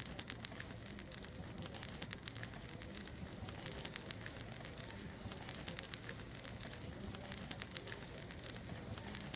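Wood bonfire crackling, with irregular sharp pops and snaps over a steady hiss of burning.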